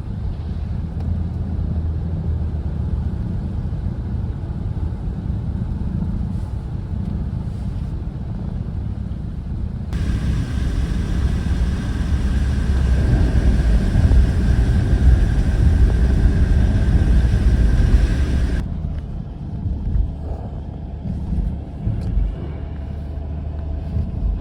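Car running down the road: steady low engine and tyre rumble. For about nine seconds in the middle, a louder, hissier stretch with a steady high-pitched tone starts and stops abruptly.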